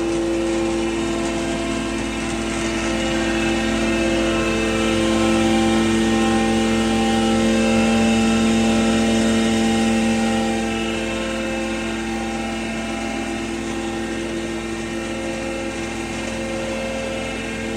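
Animal feed pulveriser machine running steadily, a continuous machine hum with several held tones that swells a little partway through.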